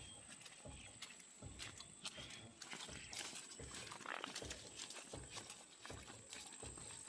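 Faint, evenly spaced low thuds, about two a second, over a steady high-pitched whine.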